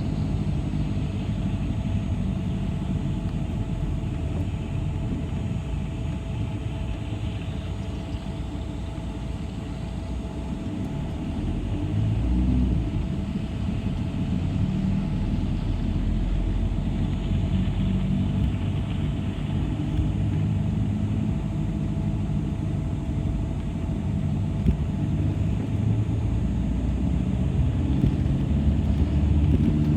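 City bus in motion, heard from inside the cabin: a steady low rumble of motor and road, with its pitch drifting up and down as the bus speeds up and slows, and a faint steady hum above it.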